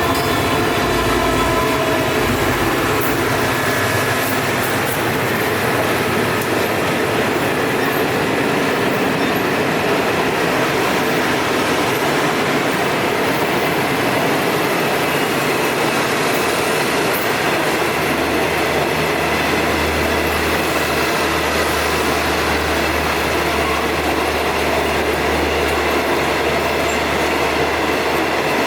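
Passenger train of former Japanese 24, 14 and 12 series coaches running on the rails, a steady loud rolling noise of wheels on track. A low hum comes in about two-thirds of the way through.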